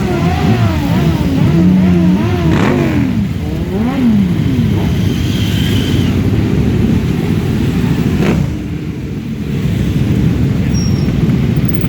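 Motorcycle engines being revved up and down repeatedly over the first few seconds, then several engines running together in a steady rumble. There are two sharp cracks, about two and a half seconds in and about eight seconds in.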